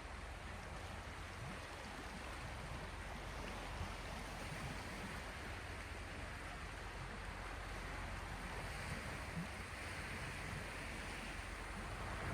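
Small sea waves washing on the shore: a steady hiss of moving water that swells slightly about three-quarters of the way through.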